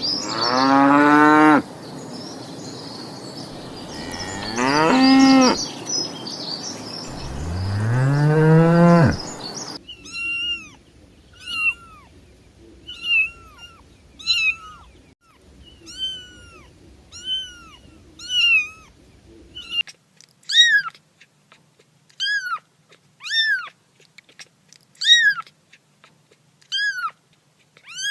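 A kitten mewing over and over, short high falling mews about once a second. These follow three long, low, drawn-out animal calls in the first ten seconds.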